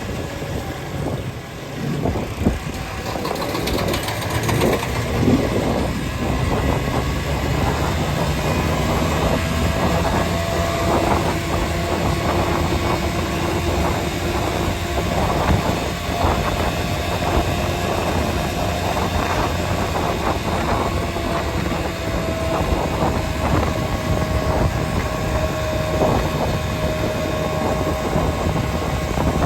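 Vehicle driving along a road: steady engine and road rumble, with frequent short knocks and rattles and a faint wavering whine.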